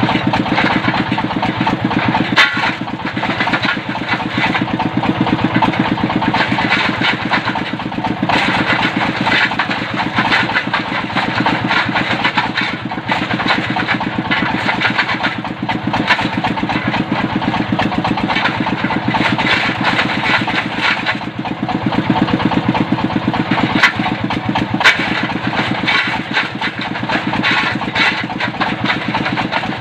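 Diesel engine of a well-drilling machine running steadily under load, with a few sharp knocks.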